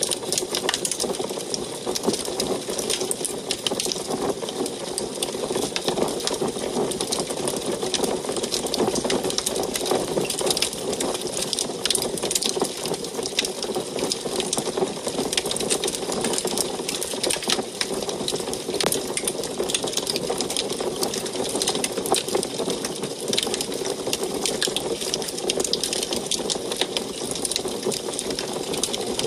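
Wood fire burning in an antique wood stove: many quick crackles and pops over a steady rushing burn.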